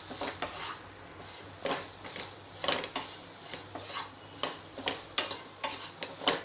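Diced raw green mango sizzling steadily in hot spiced oil. A wooden spatula stirs it and scrapes and knocks against the pan at irregular intervals.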